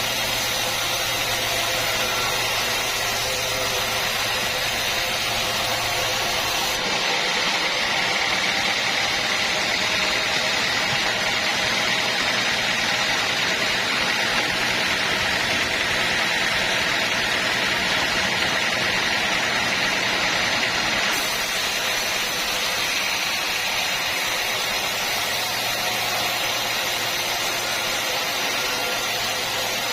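Sawmill machinery running with a steady mechanical noise. Its tone changes abruptly about 7 seconds in and again about 21 seconds in.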